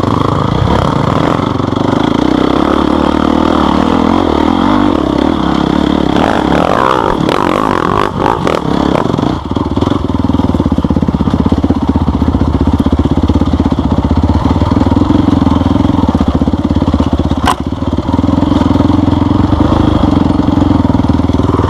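Off-road motorcycle engine running steadily under way, with a spell of clattering knocks and rattles about six to nine seconds in.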